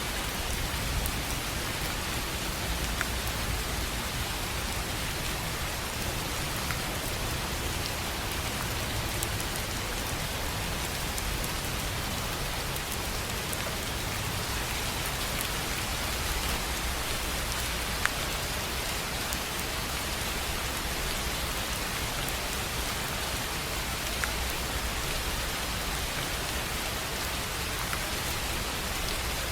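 Steady rain falling on a tin roof: an even hiss with occasional sharp drop ticks standing out.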